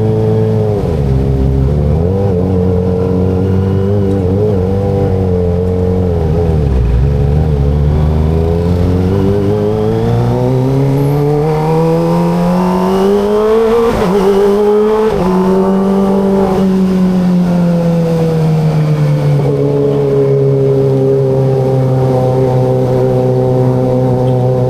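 Kawasaki ZX25RR's 249 cc inline-four engine and exhaust on the move. The engine note dips early, then climbs steadily for about seven seconds. It breaks off briefly at a gear change about fourteen seconds in, then eases down slowly and settles to a steady cruise.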